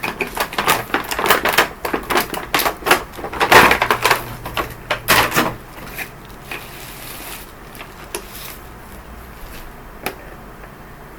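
Rapid clattering and knocking of objects being handled for about five seconds, then quiet room tone with one sharp click about ten seconds in.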